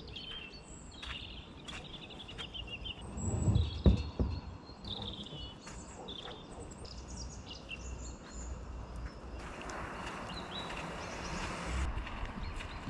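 Small birds chirping, over a low rumble on the microphone, with a couple of loud thumps about four seconds in.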